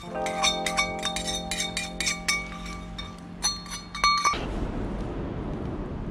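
Rapid clinking of a utensil against a dish, about four clinks a second, over a steady low hum. About four seconds in, both stop abruptly and give way to a steady rushing noise.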